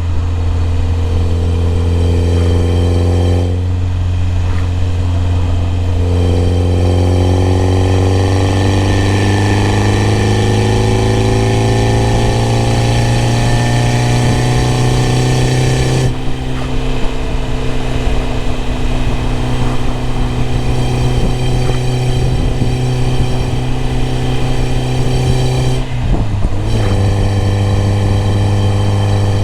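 BMW E30 M3's four-cylinder engine running at a steady drone. A whine rises slowly in pitch from about six seconds in and cuts off abruptly around sixteen seconds; a brief break comes near the end.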